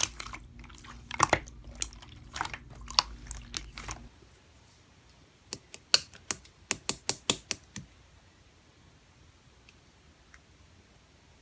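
Slime being squeezed and poked by hand, making clicking and popping sounds: scattered clicks in the first few seconds, a quick run of sharp clicks a little past the middle, then only a few faint ticks.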